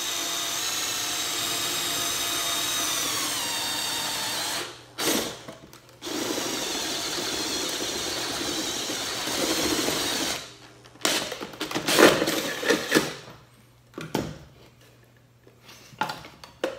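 Power drill with a 5/16-inch bit boring through the metal body of a vintage camera, running steadily in two stretches of about four seconds each with a short stop between. After that come several separate knocks and clatters of hard objects being handled.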